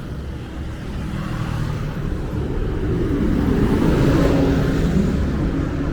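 A motor vehicle engine running close by, growing louder to a peak about two-thirds of the way through and then easing off, like a vehicle passing.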